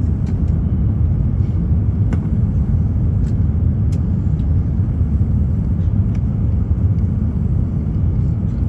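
Airbus A350-900 cabin noise in flight: a steady low rumble of the Rolls-Royce Trent XWB engines and the airflow, with a few faint clicks.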